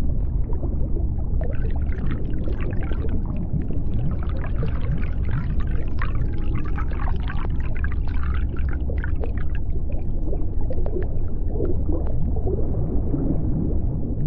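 Underwater sea-bottom ambience: a steady low rumble, with dense crackling clicks for several seconds from about a second and a half in, and a few short wavering tones near the end.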